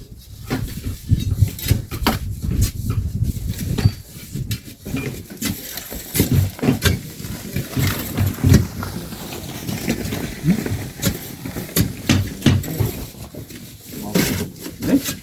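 Shovels scraping into sand and loads of sand thudding into a truck bed, over and over at an uneven pace.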